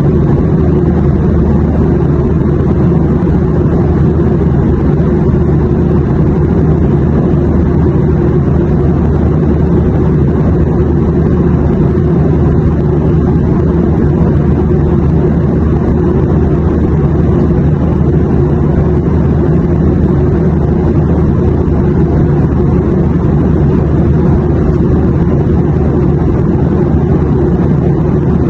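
Airplane noise: a steady, deep drone with an even rushing hiss above it, unchanging throughout.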